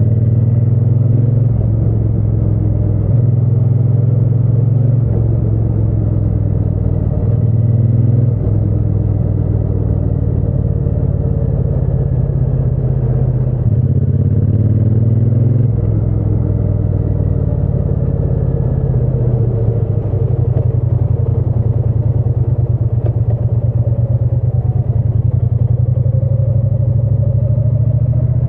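Triumph Bonneville T120's parallel-twin engine and exhaust on the move, the engine note stepping up and down several times and rising in places as the rider works the throttle and gears.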